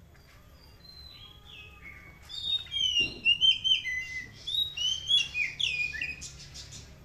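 Bird singing a rapid, varied phrase of short, high whistled notes that slide up and down in pitch. It starts about two seconds in and stops shortly before the end.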